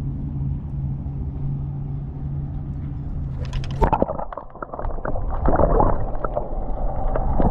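Water sloshing and splashing against a kayak, with a few knocks a little under four seconds in, over a steady low hum in the first half.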